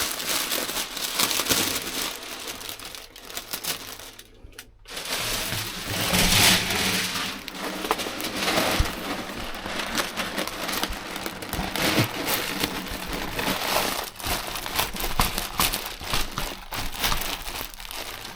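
Rustling and crinkling of sticky sound-insulation material being handled and pressed into place by hand, with a brief pause about four seconds in.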